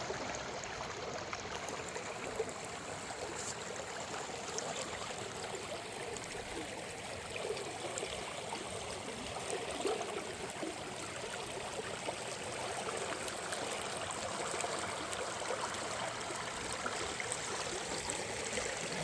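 Stream water flowing steadily, a continuous rushing with small splashes and gurgles.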